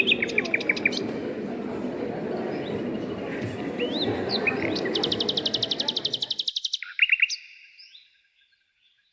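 Songbirds chirping, with a fast, even high trill about two-thirds of the way through and a lower trill right after it. A low background murmur under the birdsong cuts off suddenly after about six and a half seconds.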